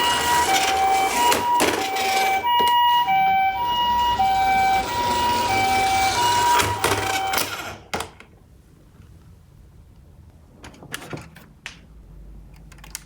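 Toy ambulance minicar's electronic two-tone siren alternating high and low in the hi-lo 'pee-po' pattern, over the rattling of plastic toy cars rolling down a cardboard slope. Both stop about eight seconds in, leaving a few light clicks.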